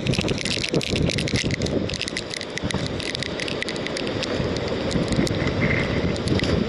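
Strong gusting wind buffeting the microphone as a steady low rumble, with many small sharp clicks and crackles scattered over it throughout.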